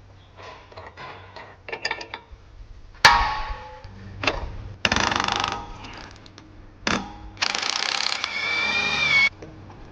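A power wrench runs in short bursts, the longest nearly two seconds with a wavering whine, among metal clicks and a sharp knock about three seconds in, as the Porsche's air suspension strut is unbolted.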